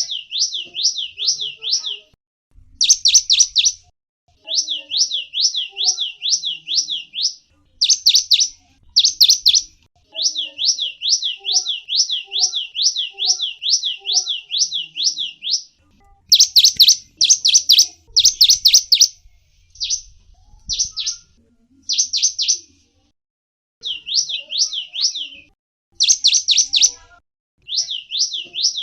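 Gelatik wingko songbird calling in rapid runs of high, downward-sweeping chirps, about six a second. Each run lasts one to two seconds, with short pauses between runs.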